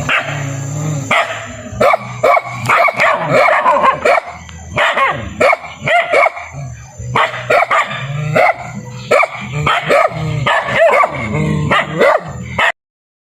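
Dog barking over and over, a steady run of sharp barks about two a second, that cuts off suddenly near the end.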